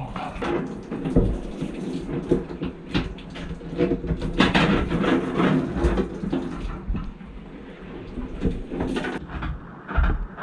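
Water splashing and pouring in heavy rain, with irregular knocks and clatter throughout.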